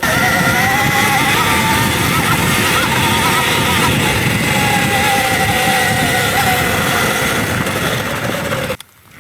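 Electric dirt bike under way: a wavering whine from the motor and drivetrain over a loud rush of wind and ground noise. It starts abruptly and cuts off suddenly near the end.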